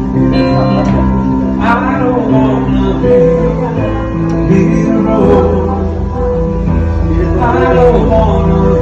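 Live music: a male voice singing over guitar and other instruments.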